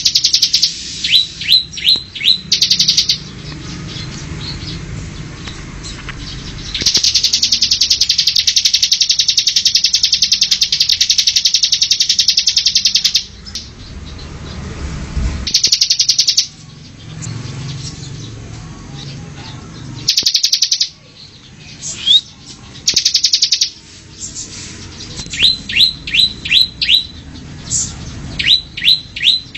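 Small songbirds calling: long, very rapid buzzing trills alternating with runs of short, quick down-slurred chirps, with brief pauses between the phrases.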